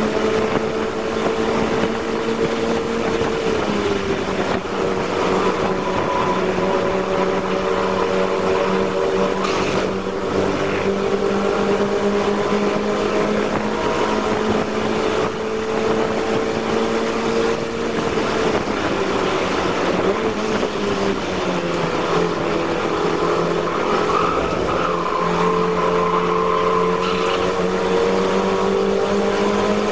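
MX150R race car's engine at high revs heard from inside the cockpit, holding a steady note at speed. About two-thirds of the way through its pitch falls as the car slows for a corner, then it climbs again as the car accelerates.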